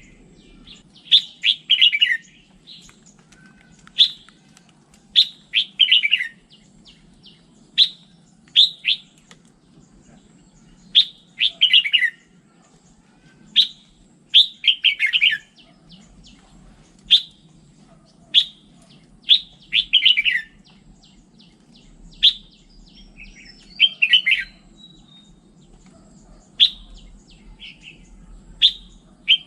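Red-whiskered bulbul singing: short, loud phrases repeated every one to three seconds, many of them sliding downward in pitch, over a faint low hum.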